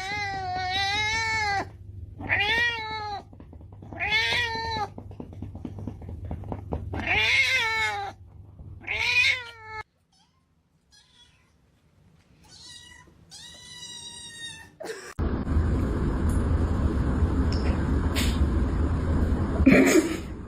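A cat yowling in five long, drawn-out meows, each rising and then falling in pitch. After a sudden break come a few fainter meows, and about three-quarters of the way in a steady rushing noise takes over.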